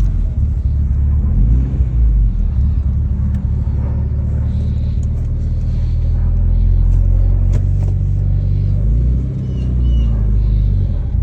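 BMW E30 M3's S14 inline-four engine running, with a slight rise and fall in revs near the start and again near the end. The engine has the knock the owner is documenting.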